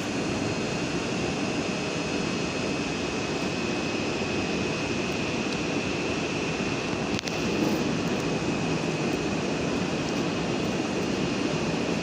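PESA Dart ED161 electric multiple unit giving off a steady rushing hum with a thin, constant high whine, and a single short knock about seven seconds in.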